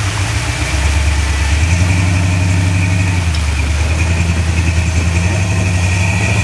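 Off-road vehicle's engine pulling under load up a rock climb: the revs step up during the first second or two, then hold steady.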